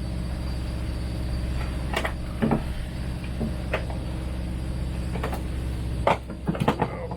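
An engine runs with a steady drone, with scattered knocks and clunks of gear being handled. The clunks come thicker in the last second or so.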